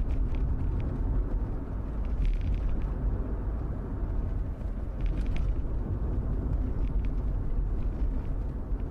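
Steady low rumbling background ambience with faint, scattered clicks.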